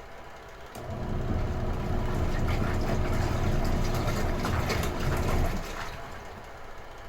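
Retro-style washing machine's wash motor starting up about a second in, churning the water with a low rumble, then winding down after about five seconds: one stroke of the stop-and-go wash cycle.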